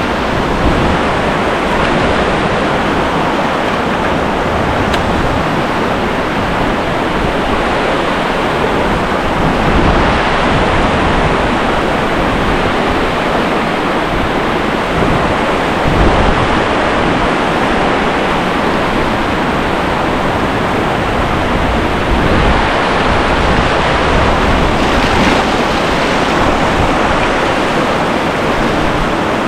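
Whitewater rapid rushing loudly and steadily close to the microphone, with an uneven low rumble underneath.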